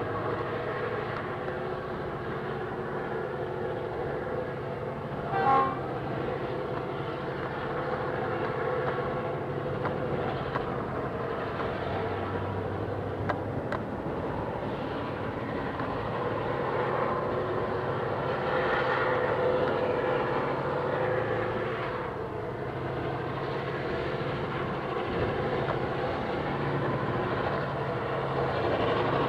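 EMD two-stroke diesel locomotives of the GM and ALF classes running with a steady engine drone while hauling a loaded grain train. A brief, short toot of the locomotive horn comes about five and a half seconds in.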